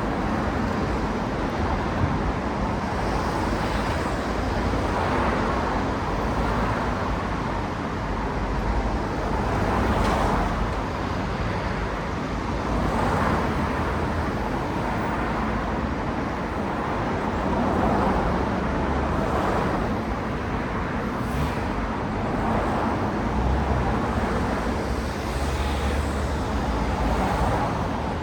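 Steady city road traffic, cars passing one after another with their tyre and engine noise swelling and fading every few seconds.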